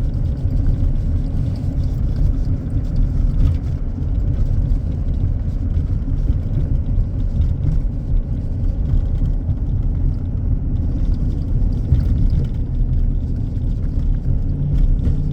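Steady low rumble of road and engine noise from a vehicle towing a horse trailer on the highway.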